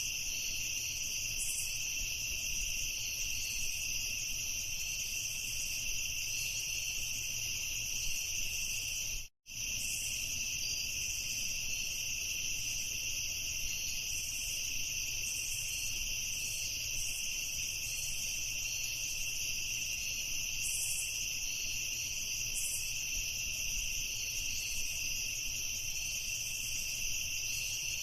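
Crickets chirping in a dense, steady chorus. The sound cuts out completely for a split second about nine seconds in, then resumes unchanged.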